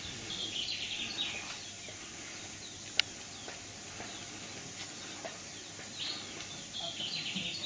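Birds calling outdoors: bursts of quick, high chattering notes about a second in and again near the end over a steady background hum of the surroundings, with a single sharp click midway.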